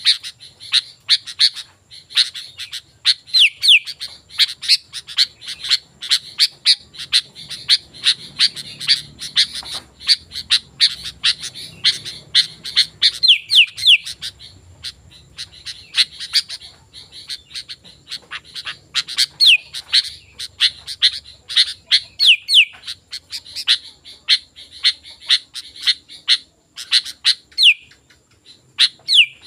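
Sooty-headed bulbul (kutilang) calling energetically: a rapid, dense run of sharp chirps, broken now and then by short whistled notes that fall in pitch.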